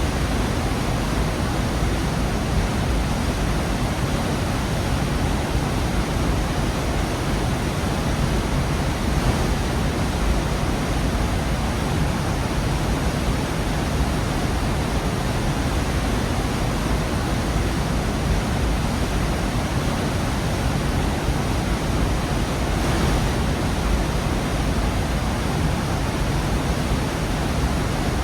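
Waterfall in a rocky gorge, water pouring and crashing in a steady, dense rush that is heaviest in the low end.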